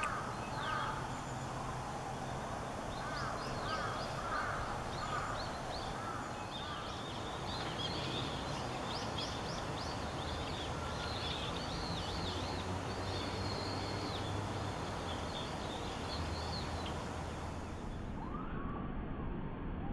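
Outdoor birdsong over a steady background hiss: a few lower calls in the first seconds, then many high, quick chirps repeating through most of the stretch.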